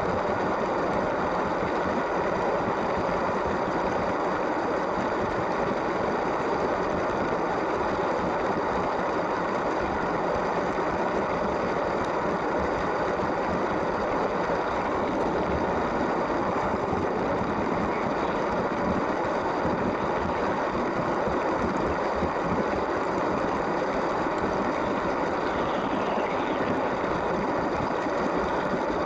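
LEGO train's small electric motor running steadily, with the wheels rolling along plastic track, a constant whirring rumble.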